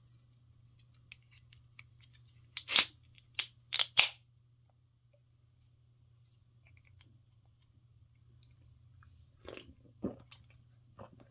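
A person biting and chewing crisp-fried aralia shoot (dureup) tempura close to the microphone: four loud crunches between about two and four seconds in, then softer chewing near the end.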